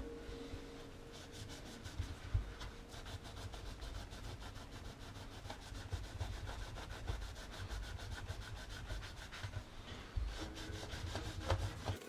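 Rapid back-and-forth rubbing strokes by hand on a part, about five a second, with a few knocks among them.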